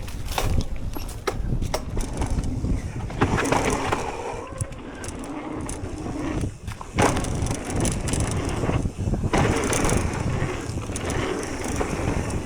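Propain electric mountain bike ridden along a dirt trail: steady tyre and wind rush, broken by many short knocks and rattles from the bike over bumps.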